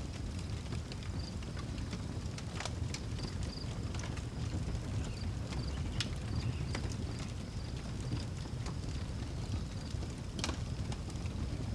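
Wood fire crackling outdoors, with scattered sharp pops over a low steady rumble; the loudest pop comes near the end. Crickets chirp faintly and steadily in the background.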